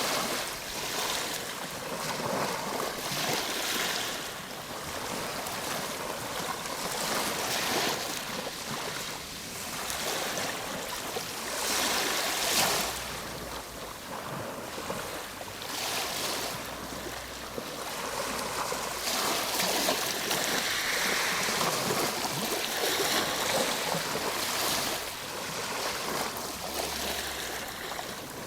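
Ocean waves breaking and washing on a shore, a steady rush of surf that swells and falls every few seconds.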